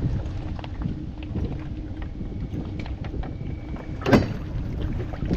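Wind rumbling on the microphone aboard a kayak on the water, with one sharp knock about four seconds in.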